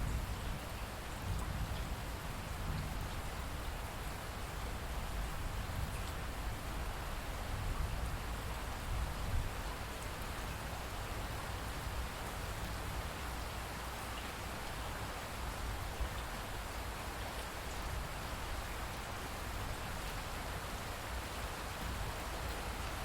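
Steady rain falling, with a few scattered drop ticks over a constant low rumble.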